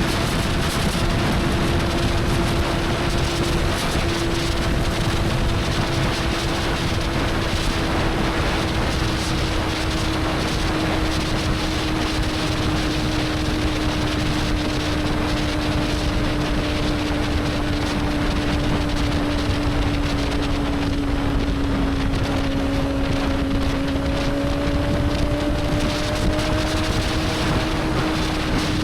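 Motorcycle engine at steady cruising revs with heavy wind rush on the microphone. The engine note holds nearly level, dipping slightly and climbing back in the second half.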